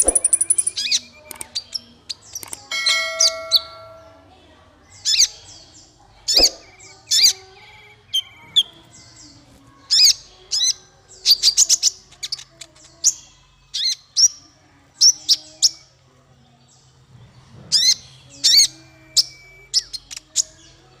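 Caged songbird singing a varied masteran song: short sharp chips and quick high phrases with pauses between, and one held whistled note about three seconds in. A faint steady hum runs underneath.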